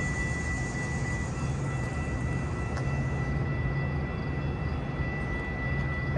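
Metra commuter train running, a steady low rumble with a constant high whine over it and a single click about three seconds in.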